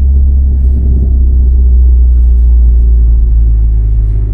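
Big-turbo 2014 Ford Fiesta ST 1.6-litre EcoBoost four-cylinder through a catless downpipe and CP-E three-inch catback exhaust, a loud, steady low drone heard from inside the cabin with a window down. It eases off slightly near the end.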